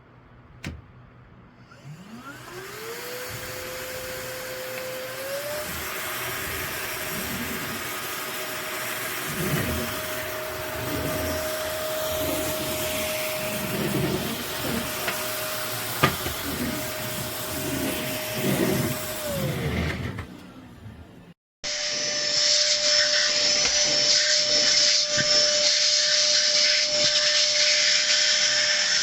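Lodick cordless stick vacuum cleaner switched on with a click, its motor whining up to speed and stepping up higher a few seconds later, running steadily with uneven rushing as the nozzle works, then winding down. After a short break a vacuum motor runs again, louder and steady.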